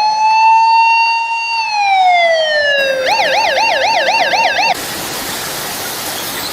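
Electronic emergency-vehicle siren: a wail that rises, holds and falls, then switches to a fast yelp of about five cycles a second that cuts off abruptly near the end, leaving a steady hiss.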